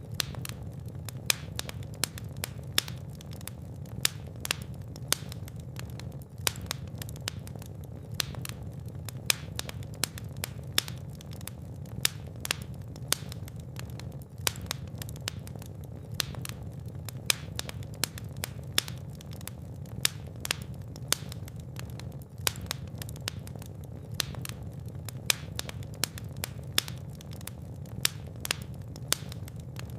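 Fire burning in a fireplace: a steady low rumble of flames with irregular sharp crackles and pops, several a second.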